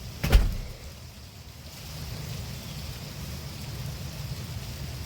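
A single sharp thump just after the start, then rain falling steadily, with a low rumble beneath the hiss.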